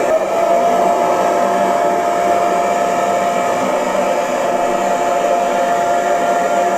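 Hair dryer running steadily, its rush of air carrying a steady whine.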